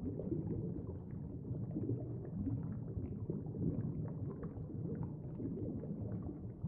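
Low, muffled bubbling of water, with faint scattered ticks over it.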